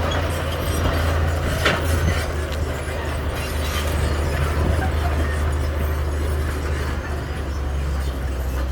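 Heavy construction machine's diesel engine running steadily with a deep hum, with some metallic clatter and one sharp clank a little under two seconds in.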